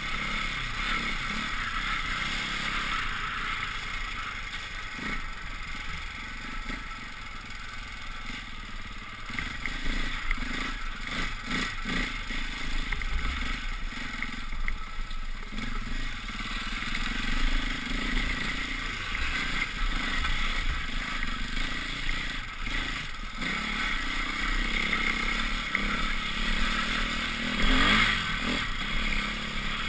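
Dirt bike engine running under changing throttle while riding, its level rising and falling, with rattle and scraping from the rough gravel track.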